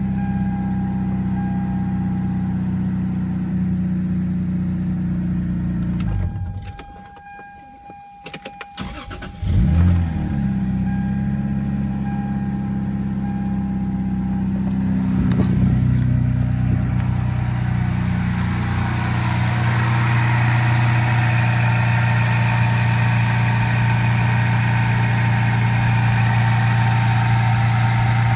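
1995 Toyota Supra's straight-six engine, started after seven years standing. It runs steadily, goes quiet for a few seconds with clicks, then fires with a loud burst about ten seconds in. It holds a high idle that drops to a lower, steady idle around fifteen seconds in.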